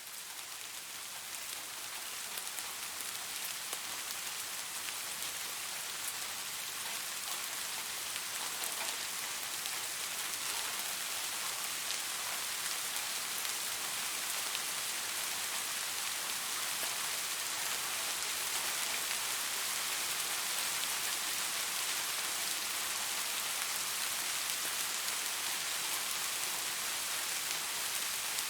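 Steady rain falling on leaves, a dense hiss scattered with the ticks of single drops; it grows louder over the first few seconds and then holds steady.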